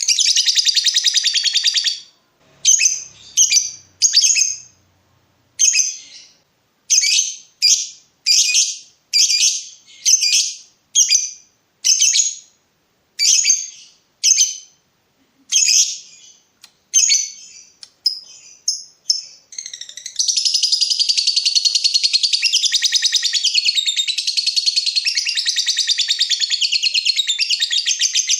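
Lovebird singing in high-pitched chattering trills: a continuous trill, then a string of short separate chirps at about one a second, then, about two-thirds through, a long unbroken trill, the drawn-out 'ngekek' song.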